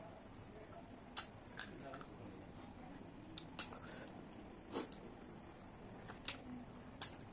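Close-up mouth sounds of a person eating chicken by hand: chewing with about six sharp, wet clicks and smacks, the loudest near the end.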